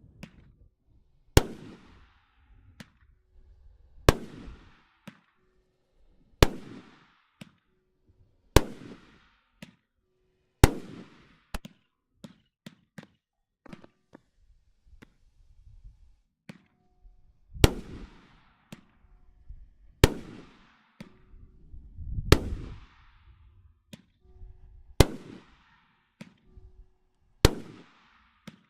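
Dr. Jekyll consumer firework going off: about ten loud bangs, roughly one every two to two and a half seconds, each trailing off quickly. Smaller pops fall between the bangs, and in the middle stretch there are only small pops for several seconds.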